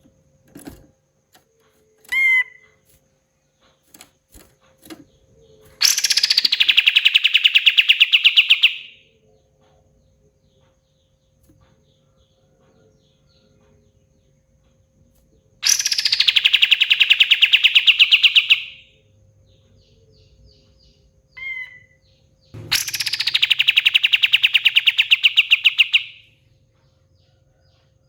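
Sooty-headed bulbul (kapas tembak) giving three long, rapid rattling trills of about three seconds each. Each trill starts high, drops and then holds a steady pitch. A few short single chirps come between them.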